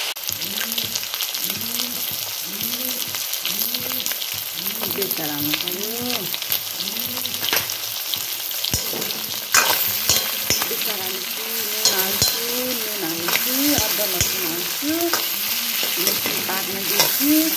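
Chicken pieces sizzling in hot oil in a black iron kadai, a steady hiss throughout. From about the middle on, a metal spoon stirs them, adding scraping clicks against the pan.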